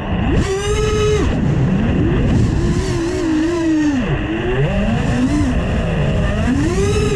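FPV quadcopter's brushless motors and propellers whining, the pitch swinging up and down again and again with the throttle over a steady rush of wind. It is raw audio from the onboard camera.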